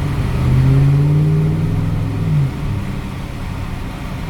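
Chevrolet Silverado pickup's engine pulling under acceleration, heard from inside the closed cab: its pitch climbs slowly, then drops suddenly about two and a half seconds in and settles into a lower steady drone.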